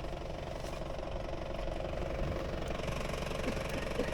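Honda Steed motorcycle's V-twin engine idling steadily.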